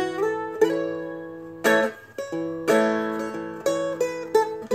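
Seagull Merlin, a four-string diatonic dulcimer-style instrument, strummed and picked: a series of chords about a second apart with ringing notes between, playing the walk-up into the solo.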